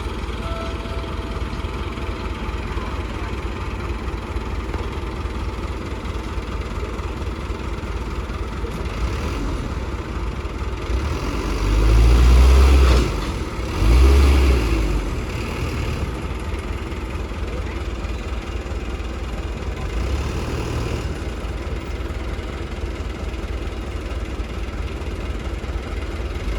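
Heavy diesel earthmoving machinery running steadily, with two loud low engine revs a little before halfway through and a smaller one later.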